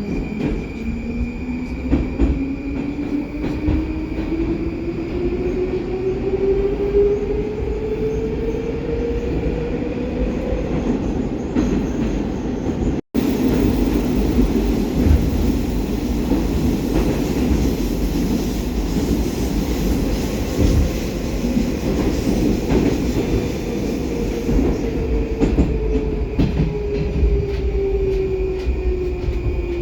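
Baltiets metro train running between stations, heard from inside the car. Its traction drive whines, rising in pitch over about ten seconds as the train accelerates, then runs at speed with wheel and rail rumble and clatter. The whine falls in pitch near the end as the train slows for the next station, with a brief dropout of sound about halfway through.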